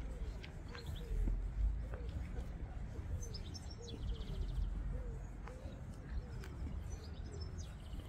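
Small birds chirping, with a short rapid trill about halfway through and more chirps near the end, over a steady low rumble of outdoor background noise.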